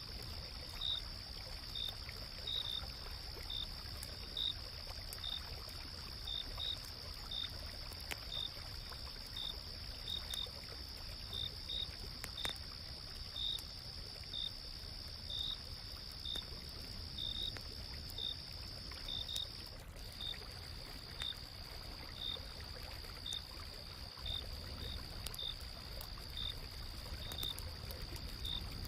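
Autumn-night insects: a steady high trill and a cricket chirping a little more than once a second, over the low rush of a stream, with faint scattered crackles from a campfire. The trill changes slightly about two-thirds of the way through.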